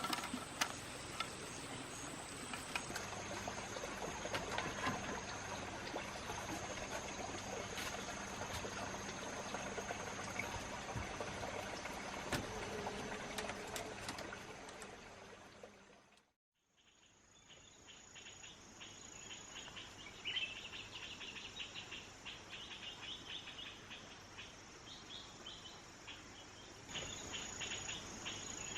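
Tropical forest ambience dominated by steady high-pitched insect trilling, with scattered taps and clicks in the first half. About halfway the sound fades out briefly, then the insect trilling returns with quick chirping notes over it.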